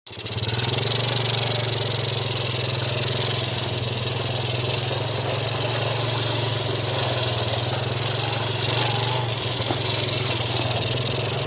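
A small engine running steadily at an even speed, with a steady high hiss above it.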